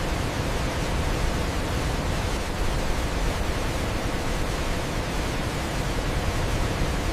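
Waterfall: a steady, dense rush of falling water, even throughout with no distinct splashes or breaks.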